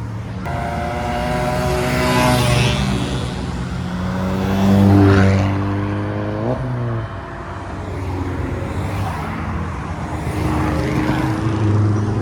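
Modified cars driving past one after another as they leave a car meet, engines pulling away; the sound peaks about five seconds in, and one engine revs up sharply soon after.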